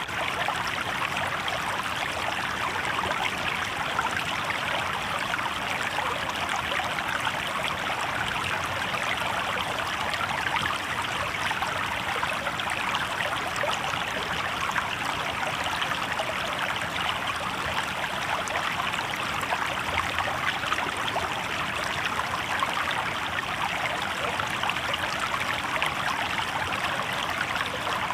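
Shallow river water babbling steadily over stones, an even, unbroken burbling that does not change in level.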